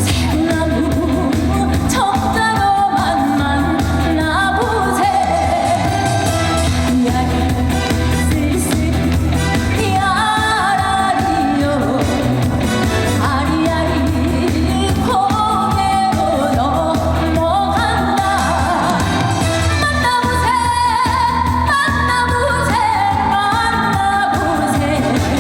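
A woman singing a Korean trot song live over amplified band accompaniment with a steady bass beat.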